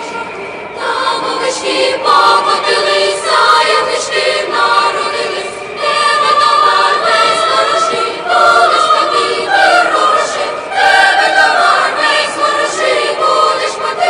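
A choir singing, in long sustained phrases with short breaks between them.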